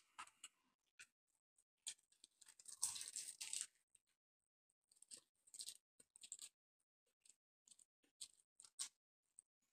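Quiet, scattered crunching and chewing of a crisp fried chicken drumstick as the breaded meat is pulled apart by hand and eaten, with a denser run of crackling about three seconds in.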